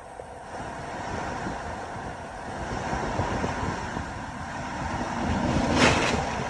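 Storm-driven waves on Lake Erie surging under 60-plus mph winds, with gusts buffeting the microphone. A wave crashes loudly near the end.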